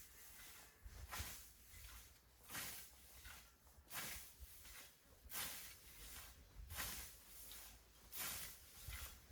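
Hand scythe cutting through tall grass: a regular series of swishes, about one every second and a half.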